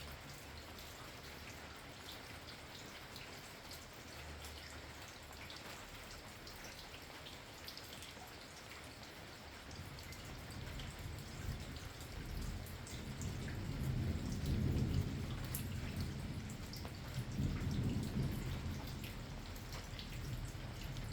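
Steady rain with individual drops ticking close by. About halfway through, a low rumble of thunder builds, swelling twice before easing off.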